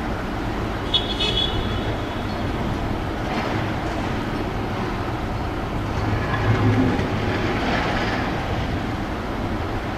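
Train running on a track near the platform: a steady rumble that swells about six to seven seconds in, with a brief high tone about a second in.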